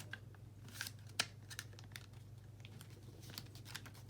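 Paper being folded and creased by hand: scattered short crinkles and clicks, with a sharp snap about a second in, over a low steady hum.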